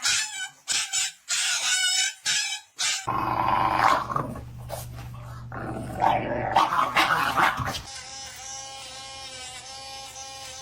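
A dog vocalizing dramatically: a run of short whimpers and yips, then whining and growling, and near the end a long, steady, drawn-out cry.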